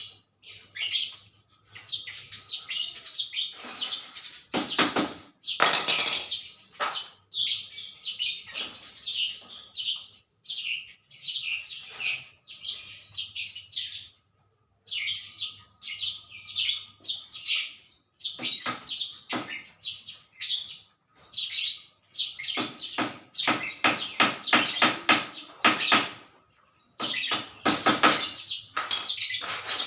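Small birds chirping and calling in quick, repeated bursts, with short gaps. Sharp knocks and rattles are mixed in, in clusters about a third of the way in and again in the last few seconds.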